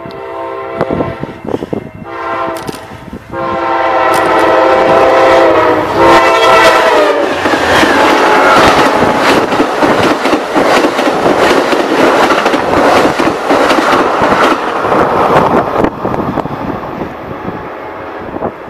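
Amtrak passenger train passing at speed, led by a diesel locomotive. Its multi-note horn sounds in short blasts, then a long blast from about three seconds in, and the horn's pitch drops as the locomotive goes by. Then come the loud rush and clickety-clack of the stainless bilevel cars' wheels, fading near the end.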